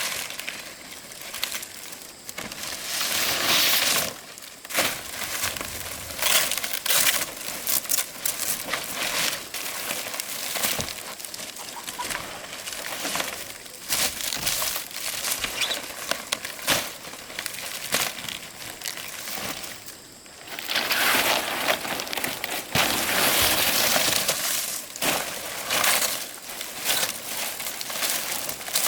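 Dry leaves rustling and crackling as they are handled, with many irregular sharp crackles and two louder stretches of rustling, about three seconds in and again past twenty seconds.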